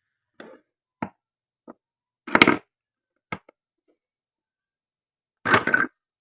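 Toy knife and toy play food clacking on a cutting board: a few separate light taps, and twice a longer, louder rough clatter, about two seconds in and near the end.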